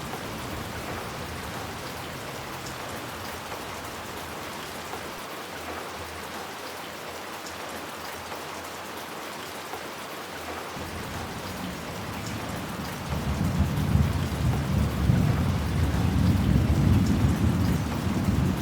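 Steady rain falling, with thunder rumbling in low about two-thirds of the way through and growing louder.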